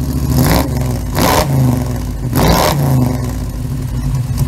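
Car engine revving, the pitch rising and falling back several times, with three louder surges.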